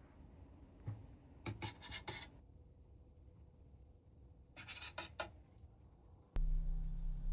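Short bouts of rubbing and scraping from hands-on food preparation, in small clusters. About six seconds in, a much louder steady low hum starts abruptly.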